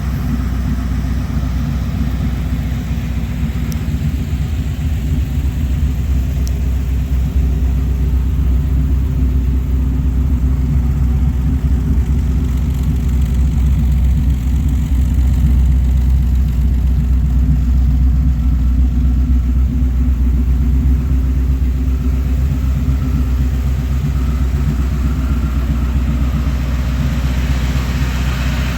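A GM ZZ3 350 small-block V8 crate engine idling steadily, a deep, even low-pitched rumble.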